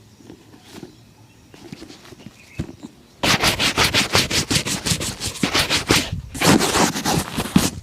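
A leather shoe being buffed in rapid back-and-forth strokes, about eight a second. The strokes start suddenly a few seconds in, after faint light scratching, pause briefly and go on.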